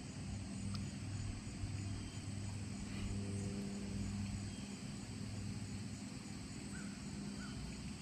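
A faint, steady low engine hum, with a few faint bird chirps near the end.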